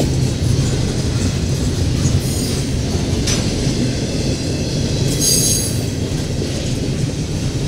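Double-stack intermodal container cars of a freight train rolling past, a steady low rumble of wheels on rail. A sharp knock comes about three seconds in, and a brief high-pitched wheel squeal about five seconds in.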